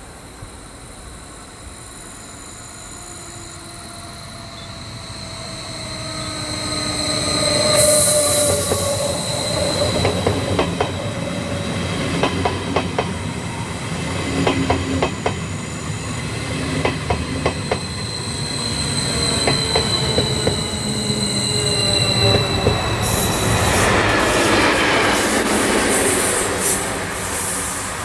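Westbahn Stadler KISS double-deck electric train passing, with a steady high wheel squeal and a clatter of wheels over rail joints. Near the end a different train's noise takes over.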